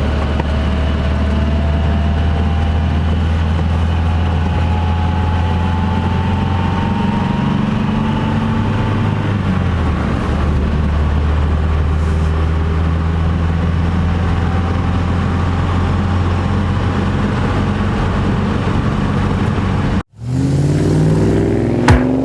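BMW 1600-2's four-cylinder engine running steadily under way at an even speed, with a slight drift in pitch. After a sudden cut about twenty seconds in, the engine revs up with rising pitch, and there is a sharp click just before the end.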